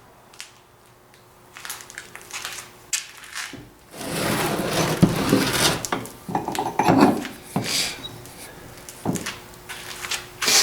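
Metal vise parts being handled: scattered clicks, then a scraping rub about four seconds in that lasts roughly two seconds, followed by several separate knocks and clatters.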